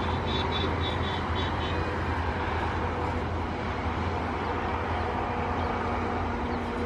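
Freight train of covered wagons rolling away on the rails, a steady low rumble that hardly fades. A high pulsing squeal sounds over it for about the first two seconds.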